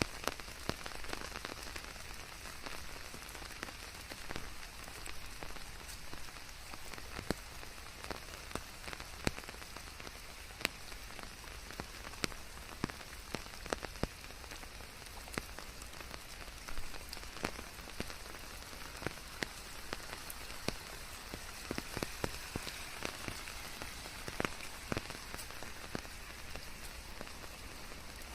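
Steady rain on a surface with many separate drops ticking sharply and irregularly through a constant hiss, blended with white noise.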